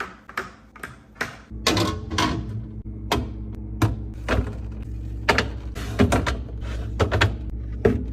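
Repeated light clicks and taps of containers and items being handled and set down while a refrigerator is arranged, with a low steady hum starting about a second and a half in.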